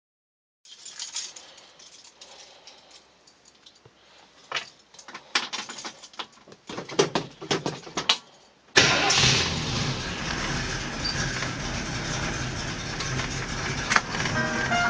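A 1966 Ford Mustang engine: a few seconds of clicks and rattles, then the engine catches suddenly about nine seconds in and settles into a rough idle just after start-up.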